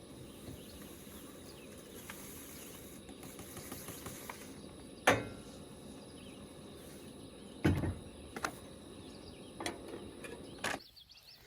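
A steady low hiss with a handful of sharp knocks and clicks; the loudest knock comes about five seconds in, a second one near eight seconds.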